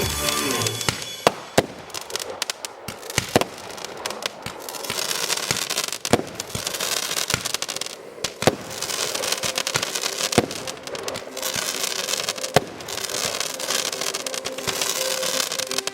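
Fireworks display: aerial shells bursting with sharp bangs every second or two, over a continuous dense crackle.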